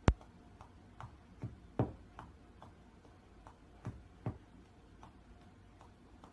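A sharp click, then a scattering of faint, irregular ticks and taps over a low background hum.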